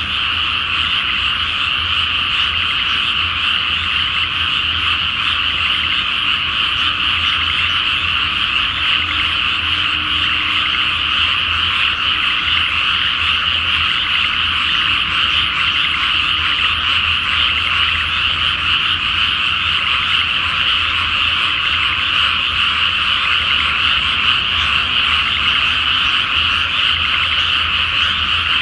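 Loud, dense chorus of many frogs calling together in a flooded rice paddy, a steady unbroken din with no pauses.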